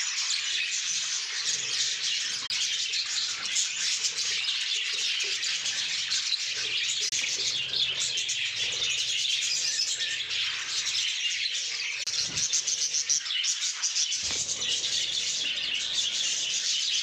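Budgerigars chattering and chirping continuously, many birds at once in a dense warble.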